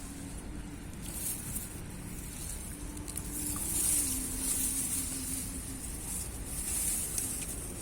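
Outdoor field ambience: a faint, steady motor hum with a low rumble, under a high hiss that swells and fades several times.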